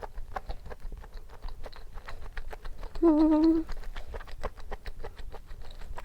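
Close-miked chewing: a string of small wet mouth clicks, with a short hummed "mm" of enjoyment about three seconds in.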